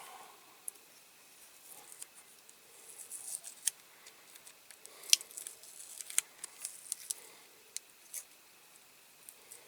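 Masking tape being peeled off a small painted diecast model car body: irregular soft crackling and rustling with scattered sharp little clicks, the sharpest about five seconds in.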